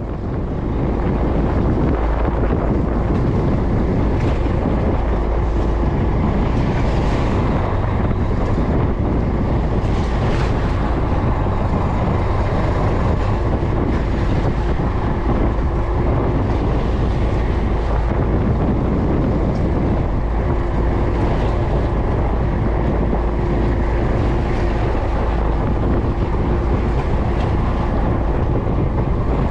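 Fishing boat's engine running steadily, with wind buffeting the microphone over a low rumble.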